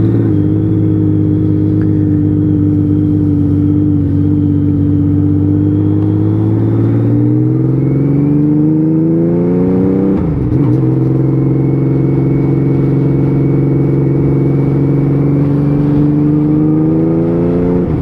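Honda Valkyrie 1500's flat-six engine running on the road. It pulls at a steady pitch, rises as the bike accelerates from about six seconds in, drops sharply at an upshift about ten seconds in, then holds and climbs again near the end.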